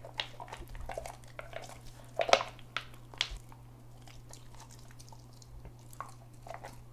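Newborn puppies suckling at their mother's teats: irregular wet smacking and clicking sounds, loudest briefly a little over two seconds in, over a steady low electrical hum.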